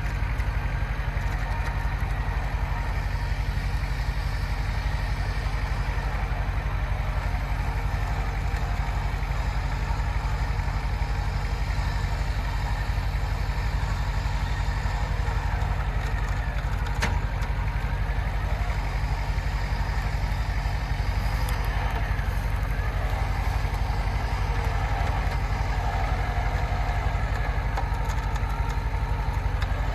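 Off-road vehicle's engine idling steadily, with one short click about halfway through.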